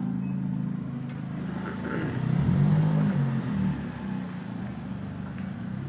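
Low, steady motor-like drone, swelling louder about two seconds in and easing back after about four.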